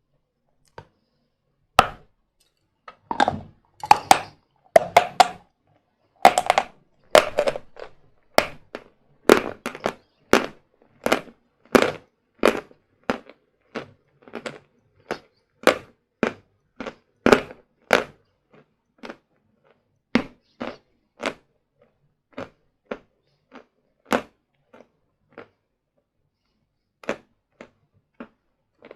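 A person biting and chewing hard sawn Vatutin chalk close to the microphone. A few loud crunching bites come first, then a steady run of crisp crunches about two a second that grow fainter and sparser toward the end.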